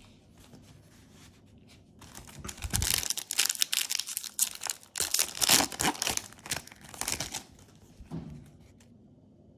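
Foil Yu-Gi-Oh booster pack wrapper being torn open and crinkled: a run of crackly tearing and rustling that starts about two seconds in and lasts about six seconds.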